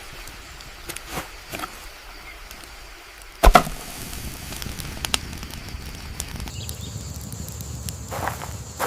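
Scattered sharp clicks and knocks of handling or movement at a camp, with one heavy thump about three and a half seconds in.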